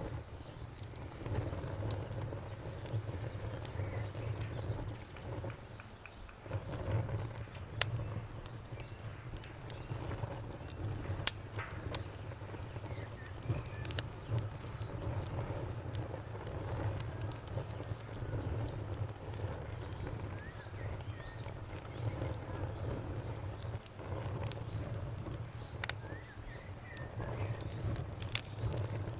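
Campfire burning: a low steady rumble of flames with irregular sharp crackles and pops from the burning wood, the loudest about eleven and twelve seconds in. A faint, steady, rapid high chirping of insects, like crickets, runs underneath.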